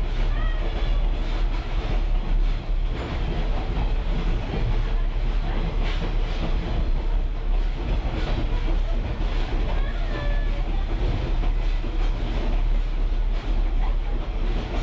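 Ride in a caboose on a moving train: a steady low rumble of the rolling cars, with wheels clicking over rail joints now and then.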